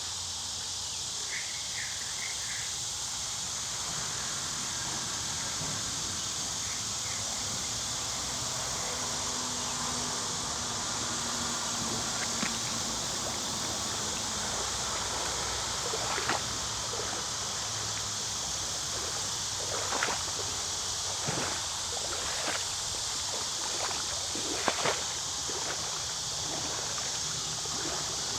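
Shallow creek water running over rocks, a steady hiss, with a scattering of sharp clicks and knocks in the second half.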